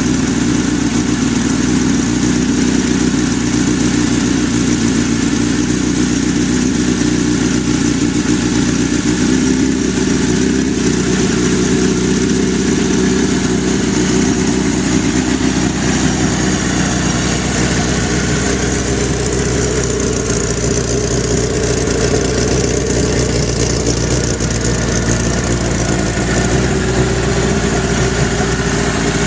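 1983 Suzuki GS1100E's air-cooled inline four-cylinder engine idling steadily as it warms up after a cold start.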